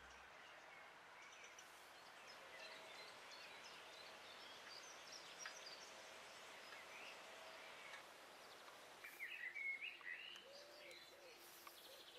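Faint outdoor ambience with small birds chirping, a few louder calls about three-quarters of the way through.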